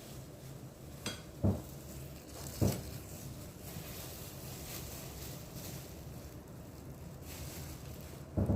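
Kitchenware being handled during food preparation: a few short, dull knocks over a steady low hum.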